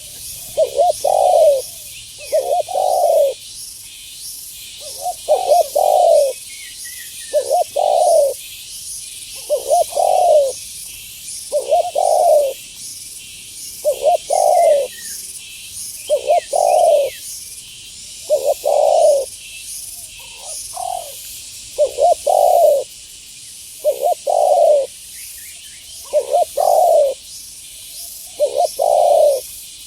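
Spotted dove (tekukur) cooing over and over in short phrases of a few notes, roughly one every two seconds, over a steady high hiss and faint chirps from other birds.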